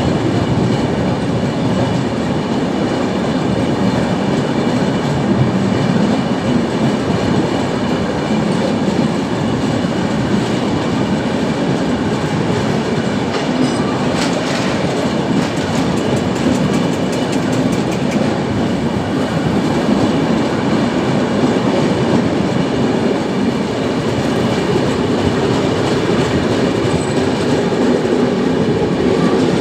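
Passenger train running on the track: a steady rumble of wheels on rail, with a run of rapid clicks about halfway through.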